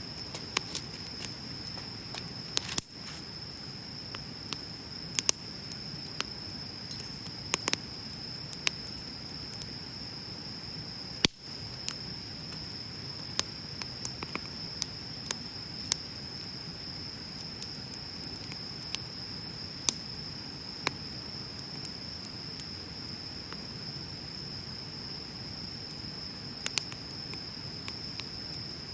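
Wood bonfire crackling, with scattered sharp pops and snaps and one loud pop about eleven seconds in. Behind it a steady high-pitched insect trill, likely crickets, runs without a break.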